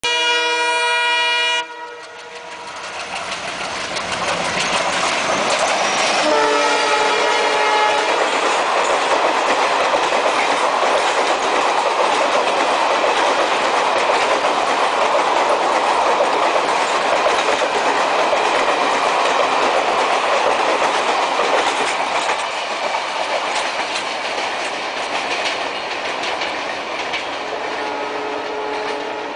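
Horn of an Indian Railways WDG-3A diesel locomotive sounding, cut off about a second and a half in, then blown again about six seconds in. A loud, steady rush and clickety-clack of a passenger train's coaches running past at speed follows, fading slowly near the end.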